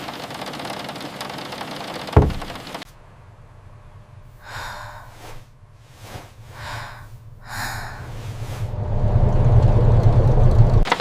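Steady rain hiss with one dull low thump about two seconds in, after which the rain cuts off. Three short hissing sounds follow, then a low rumble swells and grows loud near the end.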